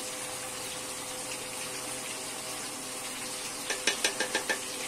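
Chicken curry sizzling steadily as it fries in its masala over a medium flame. Near the end comes a quick run of knocks and scrapes from the wooden spatula against the pot as the chicken is stirred.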